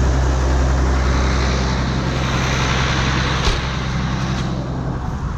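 Ford TW tractor's diesel engine running steadily while ploughing, with a single click about three and a half seconds in; the sound eases a little near the end.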